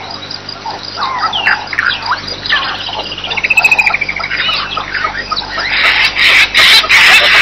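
Wild birds calling: several short, rising and falling chirps, a fast trill that slides down in pitch about three seconds in, then a dense chorus of calls from about six seconds in.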